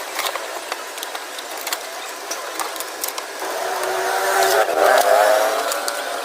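Irregular sharp clicks and metallic taps, like hand-tool work on scrap metal, with a voice-like sound in the background in the second half.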